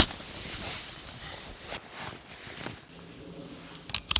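Footsteps with the rustle of a noisy outdoor jacket as a person sets off walking. The rustling is loudest at first and fades over the first few seconds, then a few sharp clicks come near the end.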